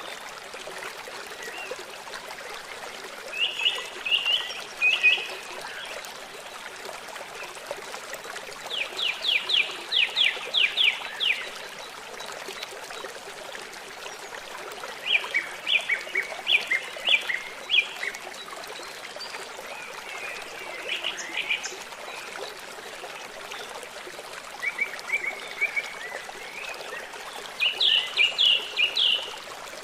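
River water flowing steadily, with small birds singing short trilled phrases every few seconds: a fast run of clipped notes about 9 seconds in, another at about 15 seconds, and a last one near the end.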